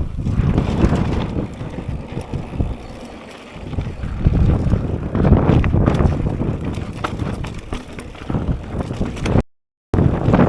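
Strong gusting wind buffeting an action-camera microphone, mixed with the rumble and rattle of a mountain bike riding over a dirt trail, with scattered sharp clicks and knocks. The sound cuts out abruptly for about half a second near the end.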